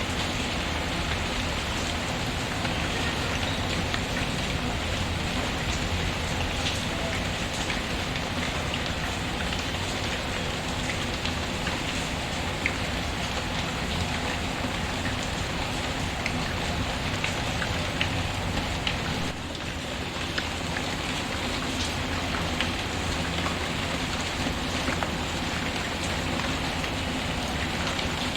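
Steady rain falling on a surface, with faint scattered clicks through it. The sound dips briefly about two-thirds of the way through.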